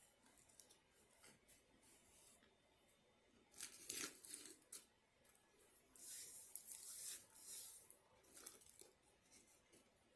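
Paper food wrapper crinkling and tearing in short bursts, about four seconds in and again for a couple of seconds a little later, with near silence between.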